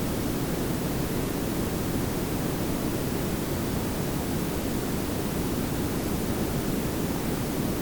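Steady layered pink and brown noise: an even hiss over a deep rumble, with most of its weight in the low end.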